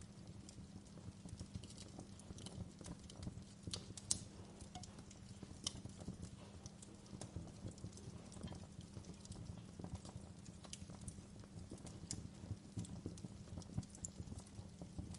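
Wood fire crackling, with irregular sharp pops and snaps over a low steady rumble; one louder pop about four seconds in.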